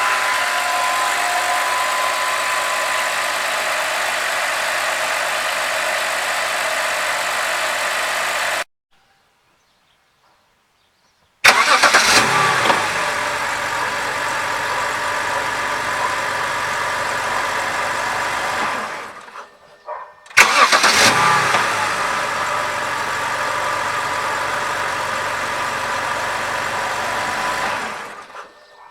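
BMW engine running with a steady hissing noise; this is the unidentified noise the owner is hunting for. The sound stops dead about a third of the way in and comes back about three seconds later with a loud burst. It fades out, starts again with another burst a little past two-thirds in, and fades near the end.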